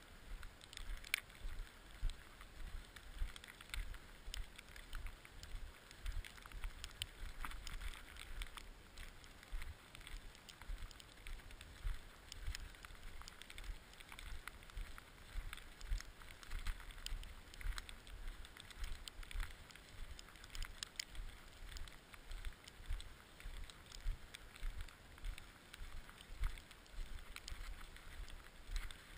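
Wind buffeting a camera microphone while skiing, an uneven gusty rumble, with scattered crackles and scrapes throughout.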